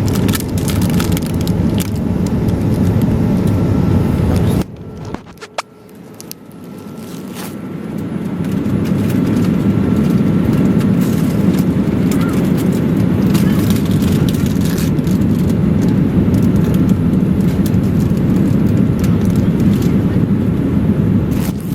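Steady in-flight cabin noise of a Boeing 787-8 airliner in cruise, a deep rush of airflow and engines, with a few faint clicks of handling. It drops out suddenly about five seconds in and swells back to full level over the next few seconds.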